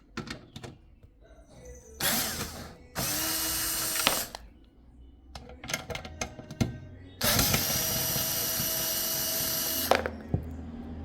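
Electric screwdriver running in three spurts, the first two about a second each and the last nearly three seconds, backing out the screws that hold a PC power supply. Clicks and knocks of handling come in between.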